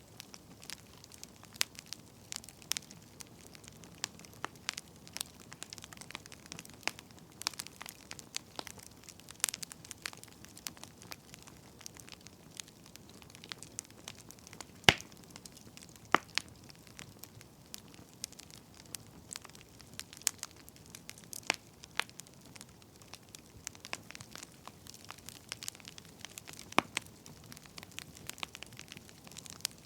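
Firewood burning with an irregular crackle: scattered pops and snaps over a faint hiss, one sharper pop about halfway through.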